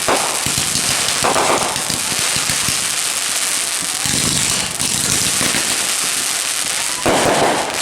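Consumer fireworks giving off a dense, continuous crackle of many rapid small pops, with louder bursts about a second in, about four seconds in, and near the end.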